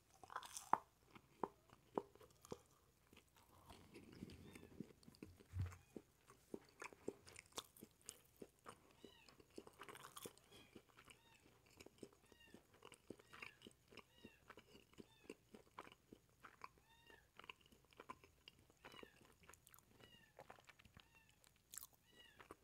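Close-miked chewing and crunching of a quesadilla, with faint mouth clicks. From about nine seconds in, a cat mews over and over in short rising-and-falling calls.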